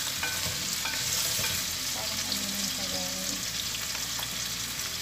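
Chicken feet frying in hot oil in a non-stick pot, with a steady sizzle. A spatula stirs them, scraping and clicking against the pot now and then.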